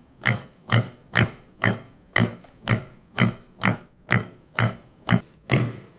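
Domestic pig grunting in a steady series of short grunts, about two a second.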